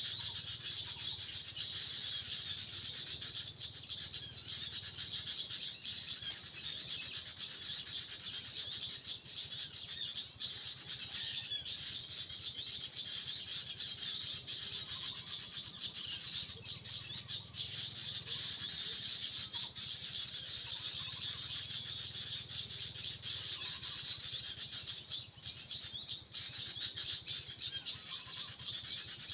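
Small birds chirping and trilling without a break in a high, busy chorus.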